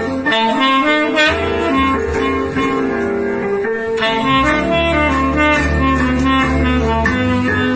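Instrumental jazz: a saxophone plays a flowing melody of held notes over a bass line.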